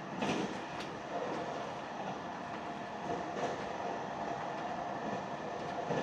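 Running noise heard from inside a JR Hokkaido 789 series 1000 subseries electric express train travelling at speed: a steady rumble with a faint steady whine and a few short clicks of the wheels over the rails.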